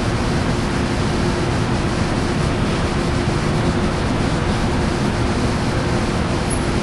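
Standing Amtrak passenger train's diesel locomotive running steadily while it supplies power to the cars, a constant loud rumble and hiss with a steady hum.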